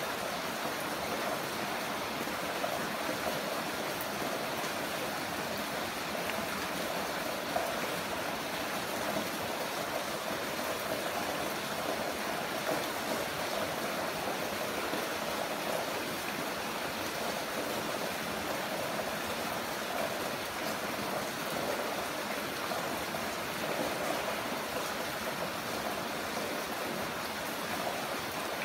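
Heavy rain falling steadily, an even hiss of water without a break.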